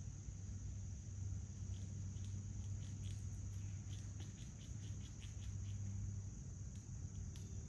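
Crickets trilling in a steady, high-pitched chorus over a low hum, with a run of short, faint ticks or chirps in the middle.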